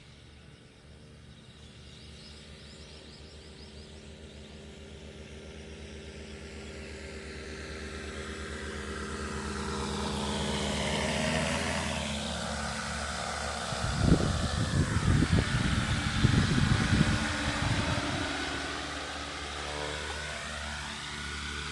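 Multirotor crop-spraying drone's rotors whining, growing steadily louder as it approaches, with rough gusty rumbling on the microphone as it passes close over, then easing off as it draws away, the pitch sliding as it goes by.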